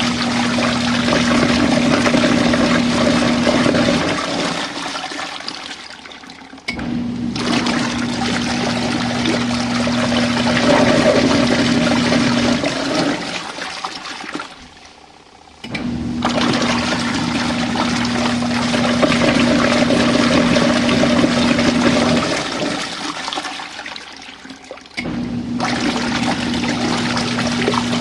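RV washing machine agitating its rinse water: the motor hums while water churns in the tub. It runs in spells of about six seconds, with a pause of two to three seconds three times.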